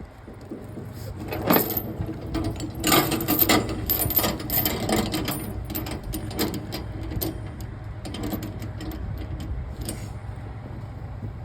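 Irregular metallic clicks and rattles over a low, steady engine hum, thickest about one and a half to five seconds in and thinning out near the end.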